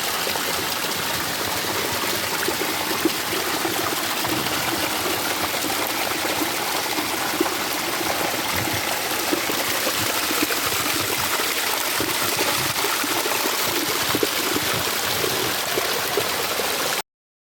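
Steady rush of a mountain creek or stream running, with no change until it cuts off abruptly near the end.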